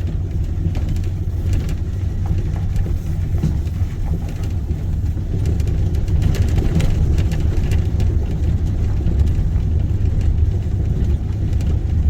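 Truck driving slowly on a rough mountain road, heard from inside the cab: a steady low engine and road rumble with scattered knocks and rattles, getting louder about halfway through.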